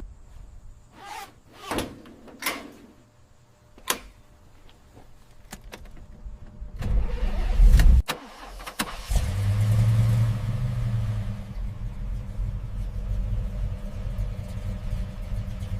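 A few sharp clicks and knocks, then a loud rising rush of sound that cuts off about eight seconds in. After that a car engine runs steadily at a low idle.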